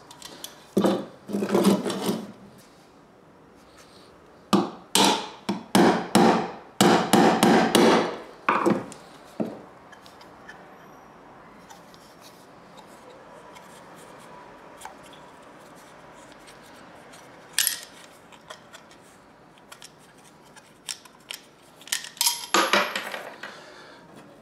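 Hammer striking out the pre-cut knockout discs of a metal electrical back box: runs of sharp metallic knocks, the densest a few seconds in, with a few more knocks near the end.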